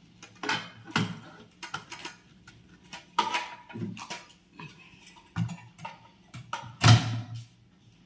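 Mixer-grinder jars and juicer attachment parts being handled and fitted on the base: a series of irregular clicks, knocks and clatters, the loudest about seven seconds in.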